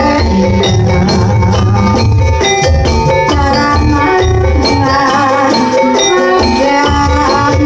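Javanese jaranan music: a gamelan ensemble of struck metal keys and drums playing a continuous, evenly pulsed piece.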